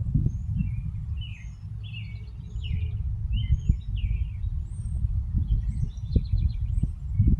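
Small birds chirping: a string of short call notes over the first few seconds, then a quick rattling run of notes about six seconds in. Underneath is a steady low rumble with soft knocks.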